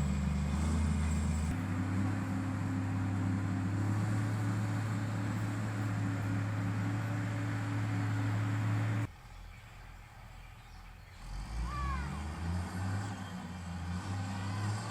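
Heavy-equipment diesel engine running steadily, its pitch stepping up slightly about a second and a half in. It cuts off abruptly about nine seconds in, leaving a fainter engine drone with a few short, high falling chirps.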